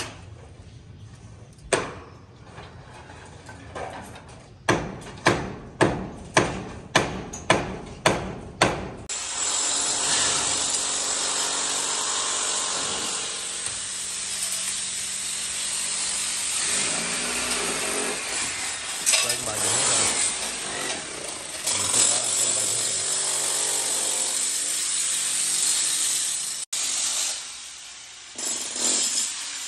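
Demolition work: a run of sharp strikes, about two a second, gives way to a power tool running steadily for most of the rest, cut off abruptly near the end.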